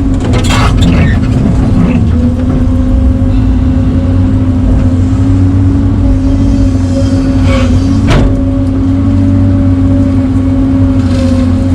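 Excavator's diesel engine and hydraulics running steadily under load while digging, a held whine over a deep hum, with a couple of short knocks or scrapes, about half a second in and about eight seconds in.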